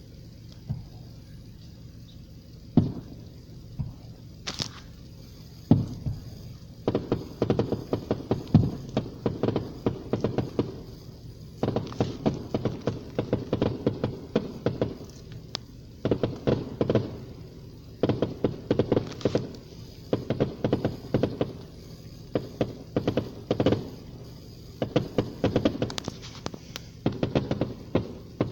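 Fireworks display: a few scattered single booms at first, then from about seven seconds in, waves of rapid bangs and crackling pops following close on one another.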